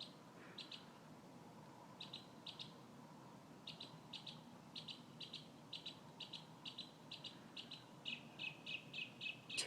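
A bird singing faintly: short, high chirps, often in pairs, coming faster toward the end.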